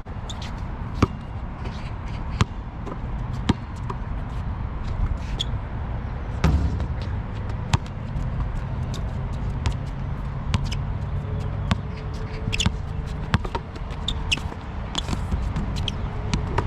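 A basketball bouncing during a one-on-one game: sharp, irregular thuds every second or two, over a steady low rumble of background noise.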